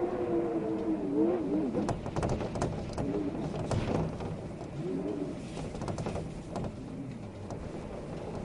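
Outdoor wind ambience: wind noise with grass rustling and light crackles, over a low wavering tone that rises and falls for the first second or so and again briefly about five seconds in.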